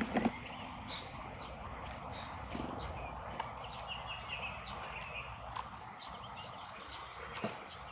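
Common starling giving soft, rambling chirps and short whistles with scattered sharp clicks.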